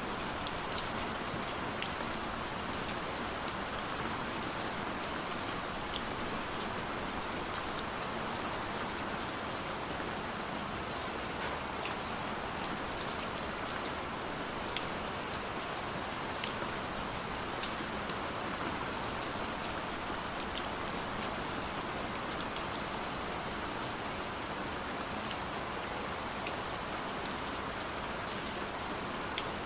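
Steady rain falling on a surface, an even hiss with scattered sharper drops ticking through it.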